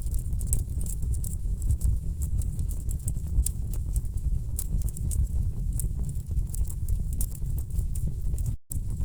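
Wood fire burning in a fireplace: a low rumble of flames under many irregular sharp crackles and pops from the logs. The sound cuts out for a split second near the end.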